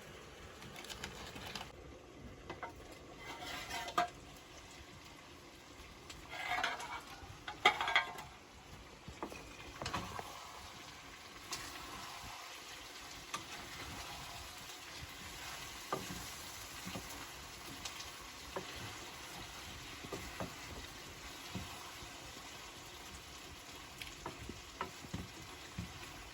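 Food sizzling and frying in a pan while it is stirred, with a spoon knocking and scraping against the pan now and then.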